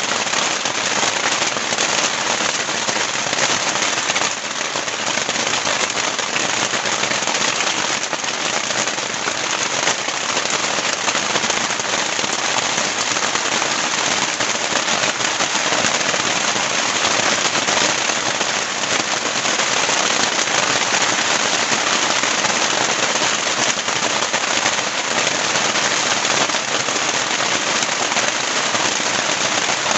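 Heavy rain falling steadily: a dense, even patter of drops hitting a surface, with no let-up.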